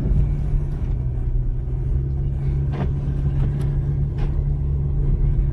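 Car driving along: a steady low rumble of engine and road noise with a constant low hum, and a few faint clicks.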